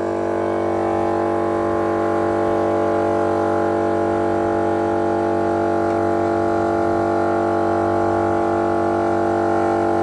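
Mile Marker battery-powered portable air compressor running steadily under load as it airs up the tires through a four-way inflator: an even, unbroken droning hum.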